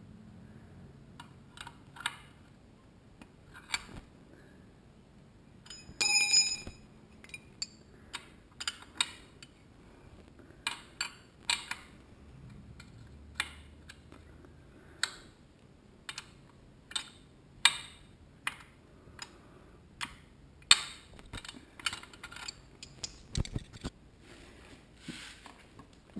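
Hand wrench working the steel chain adjuster bolt and locknut on a dirt bike's swingarm: a long run of separate metal clicks and clinks at an uneven pace, with a short metallic ring about six seconds in.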